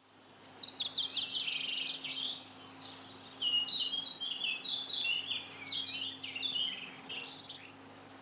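Small birds chirping: rapid series of short, high notes that fade in at the start, are busiest in the first few seconds and thin out toward the end, over a faint steady hum.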